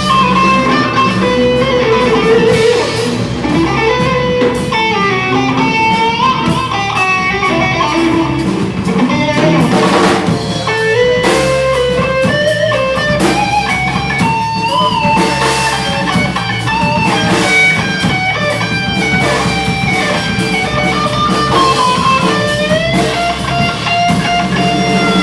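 Live band music: a guitar plays a lead melody with bends and slides over bass and drums.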